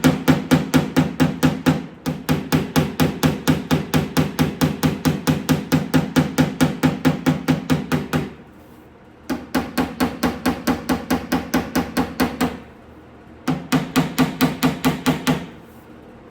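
Body hammer rapidly pecking down high spots on the steel lower door skin of a 1963 Ford Falcon, about five light taps a second with the panel ringing under each blow. The tapping comes in runs, stopping briefly about halfway through and again later before a last short run.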